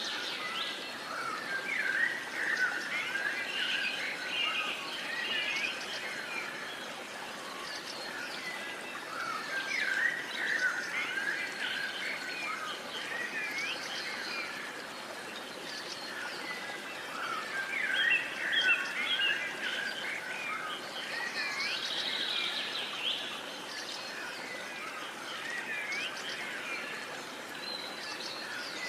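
A dawn-chorus-like mix of several songbirds chirping and whistling over a steady outdoor hiss, busier in bouts and thinning between them.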